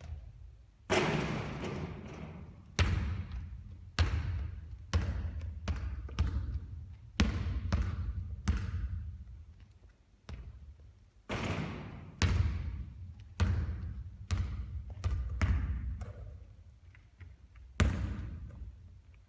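Basketballs bouncing on a court during three-point shooting practice: sharp impacts at uneven intervals, about one a second, each echoing away in a large hall.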